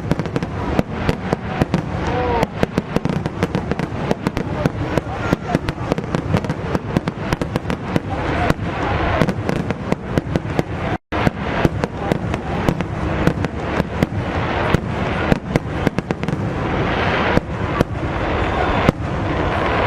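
Fireworks going off in a rapid, dense barrage of sharp bangs and crackles, several a second, over a continuous rumbling haze.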